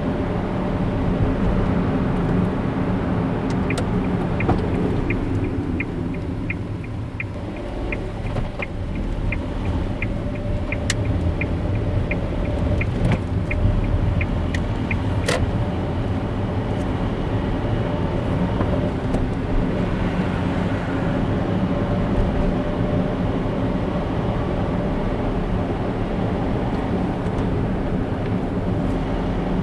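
A car driving, heard as steady engine and tyre noise. A light, even ticking of about two or three a second starts a few seconds in and stops about halfway, with a couple of sharp clicks near the middle.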